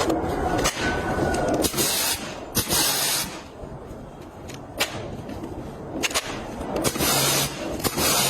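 Pressure washer spraying in several short bursts, with sharp clicks and knocks in between.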